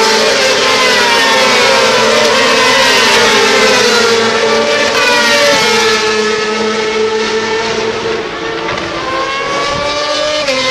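Several racing motorcycle engines running at high revs, their pitch sliding down in long glides, then climbing again near the end.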